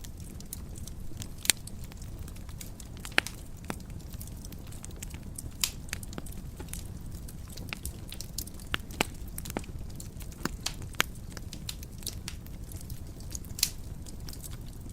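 Fire burning in a fireplace, crackling steadily over a low rumble, with irregular sharp pops, half a dozen of them louder than the rest.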